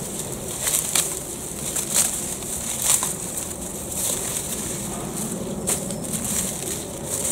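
Dry plant stalks and leaves being handled and pulled apart, a steady crackly rustle broken by sharp crunches and snaps at irregular intervals.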